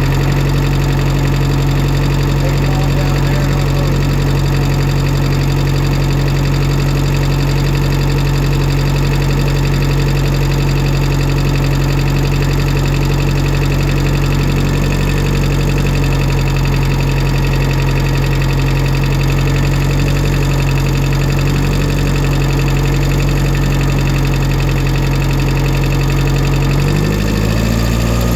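An old tractor's engine running at a steady speed, with its pitch shifting as the revs change about a second before the end.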